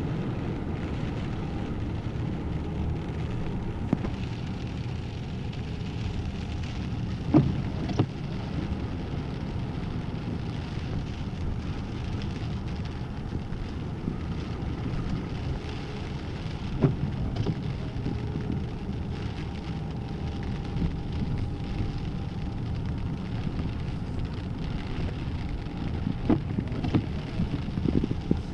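Steady low rumble of a car driving, with a few brief knocks and bumps.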